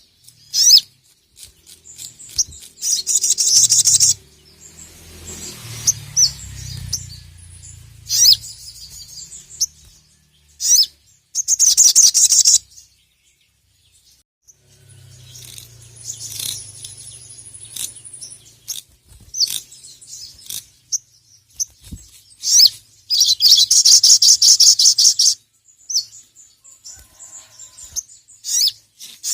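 Little spiderhunter (sogon) singing in fast, loud trilling bursts with sharp chip notes, each burst a second or two long, separated by short pauses.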